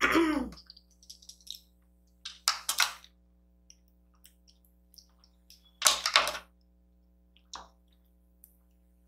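Close-up wet eating sounds of kimchi noodles being slurped and chewed, in short bursts with two main slurps a few seconds apart.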